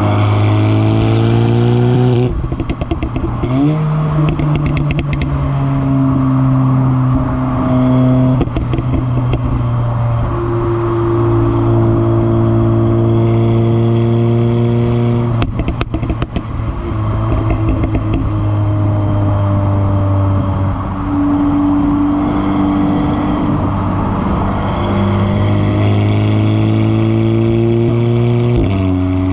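Audi S3's turbocharged four-cylinder running through a resonator-deleted exhaust (CTS downpipe into the stock catback), its engine note shifting pitch up and down several times. There is a short clatter of clicks about halfway through.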